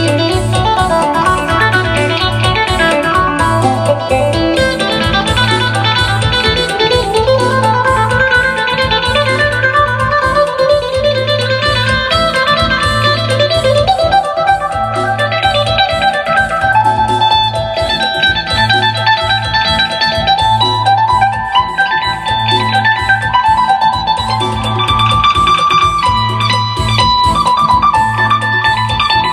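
Phin, the Isan plucked lute, playing a quick melody over a low note that repeats about once a second.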